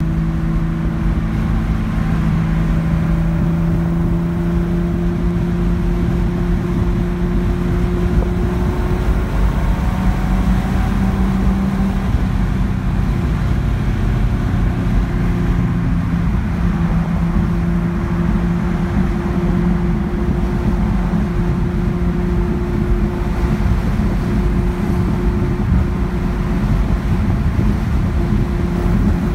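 1971 Datsun 240Z's straight-six engine running steadily with a misfire.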